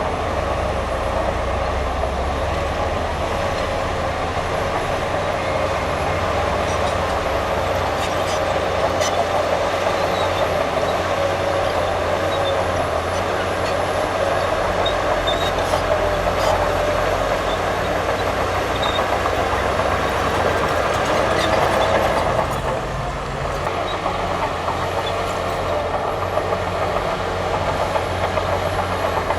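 Bulldozer running steadily, working dirt, with scattered clanks. Its sound changes about three-quarters of the way through, briefly dropping in level.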